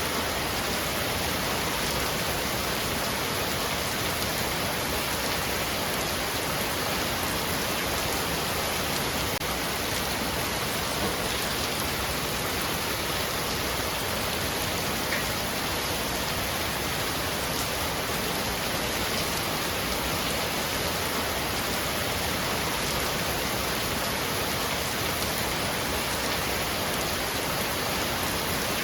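Heavy rain falling steadily on a roof, a dense even hiss of drops.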